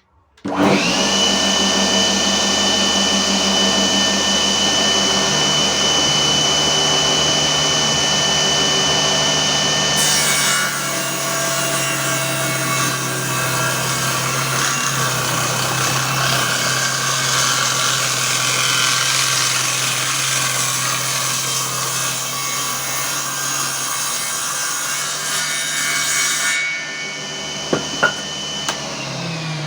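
A 997 DC motor run on 24 V spins a 7-inch, 24-tooth circular saw blade. It spins up with a steady high whine, then cuts through a workpiece with a rougher sawing noise from about ten seconds in until shortly before the end. The blade then runs free again, with a couple of sharp knocks, and its whine starts to fall as it slows down.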